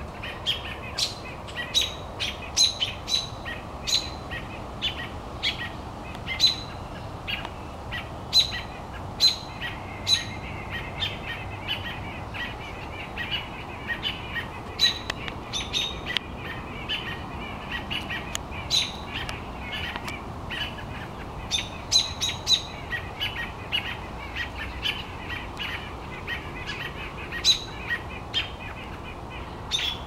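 Several small birds giving sharp, repeated alarm chips at irregular intervals over softer chattering: mobbing calls, scolding a cat that has caught one of their flock.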